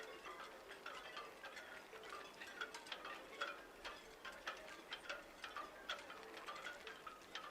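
Faint tinkling chime notes mixed with light ticks, several a second and irregular, over a soft steady tone.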